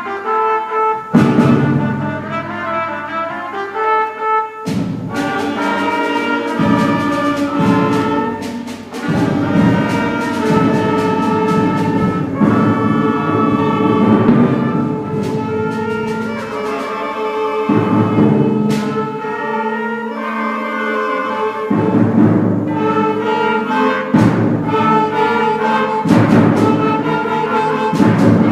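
A 7th and 8th grade school concert band playing a piece, with woodwinds and brass holding sustained chords over timpani. Sharp percussion strokes land about a second in, near five seconds, and twice more later on.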